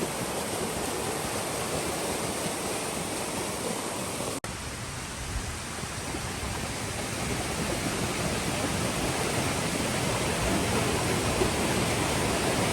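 Waterfall: a steady, even rush of falling water, cut off for a split second about four seconds in.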